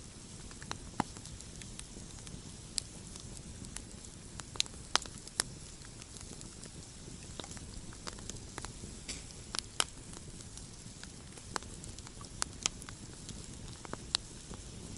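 Wood campfire crackling: irregular sharp pops and snaps, a few louder than the rest, over a soft steady hiss of the burning fire.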